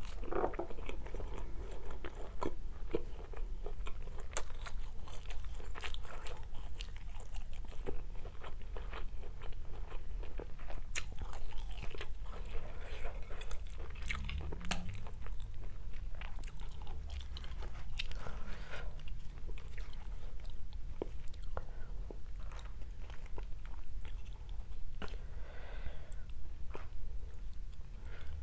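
Close-miked eating sounds: chewing and biting mouthfuls of stir-fried rice vermicelli and fried tofu, a steady run of small wet mouth clicks and crunches.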